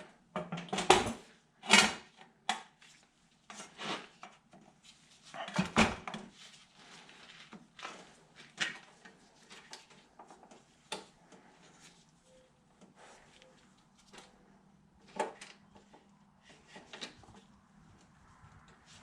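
Irregular knocks and clatters of hard objects being handled and set down, loudest about one, two and six seconds in, then fewer and fainter.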